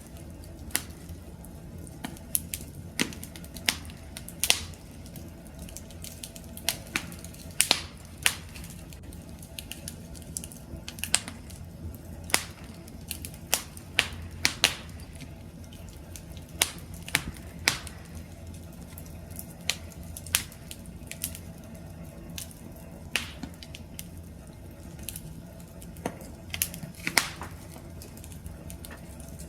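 Wood campfire crackling: irregular sharp pops and snaps, a few a second, over a low steady rumble of the flames.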